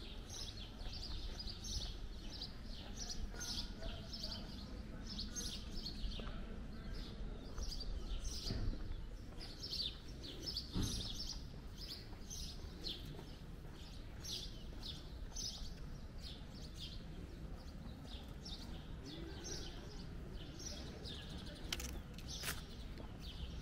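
Small birds chirping over and over in short, high calls, over a low background hum of street noise.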